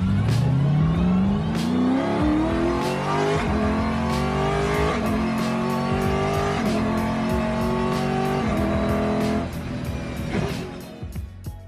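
Mercedes SLS AMG 6.2-litre V8 accelerating hard, its pitch climbing in the first few seconds and then shifting up several times before it fades near the end. Background music with a steady beat runs underneath.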